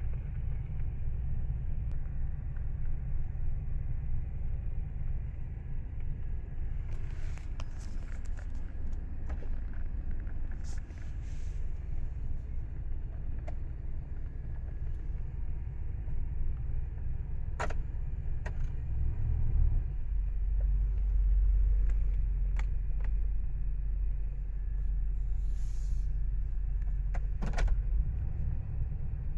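1998 GMC Savana's 5.7-litre Vortec V8 idling as a steady low rumble, which grows deeper and louder about twenty seconds in. A few sharp clicks and knocks sound over it.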